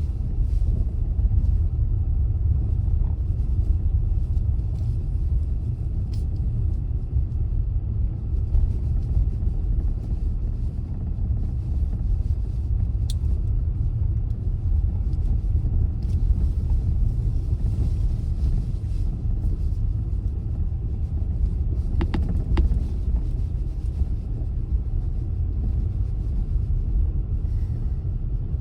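Car driving along the road: a steady low rumble of engine and tyre noise, with a few brief clicks, two close together about three quarters through.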